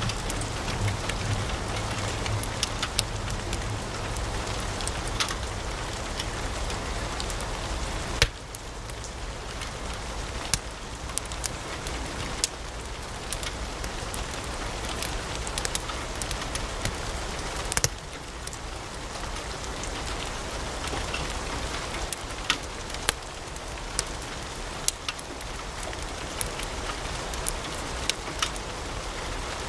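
Wood logs burning in a fireplace, crackling: a steady hiss of flame with frequent small sharp pops and a couple of louder snaps, one about eight seconds in and one a little before the midpoint.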